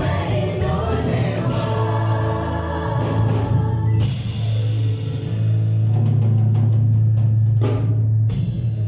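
Live gospel worship music: a choir singing with a band, over a long-held low bass note.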